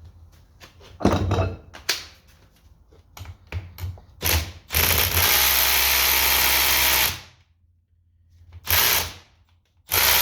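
A few sharp taps, then a handheld power driver turning a screwdriver bit in bursts: one steady run of about two and a half seconds, a short burst, and another run starting near the end, working loose a screw that is seized in place.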